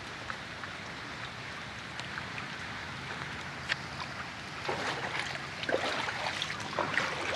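Steady rushing noise of water outdoors, with scattered light ticks and a few louder soft noises in the second half.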